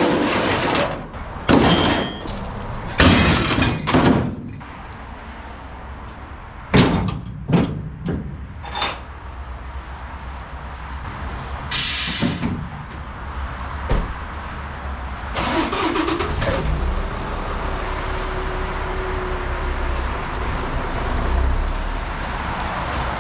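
A string of sharp bangs and clanks, then a short loud hiss of air about twelve seconds in, then a diesel dump truck's engine running steadily.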